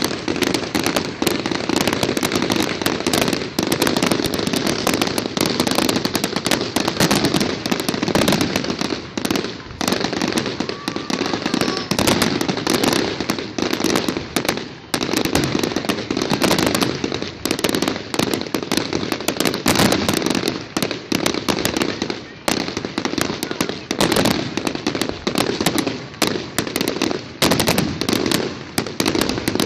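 Fireworks display going off: a dense, unbroken run of bangs and crackling.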